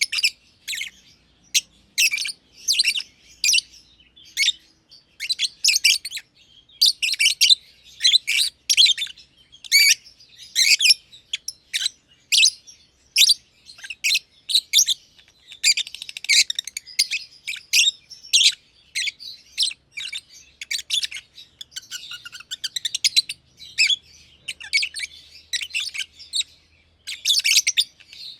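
Masked lovebirds (green and green pied personata) chirping: quick, shrill, high-pitched chirps tumbling over one another almost without a break.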